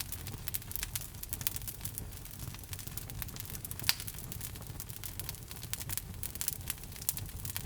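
Wood logs burning in a fireplace: a steady low rumble of the flames with frequent small crackles and snaps, and one sharper pop about four seconds in.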